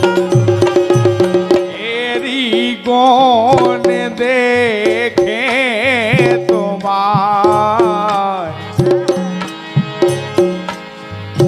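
Bundeli rai folk music: a fast, dense drum beat opens, then a wavering, ornamented melody carries on over lighter percussion, and the drumming picks up again near the end.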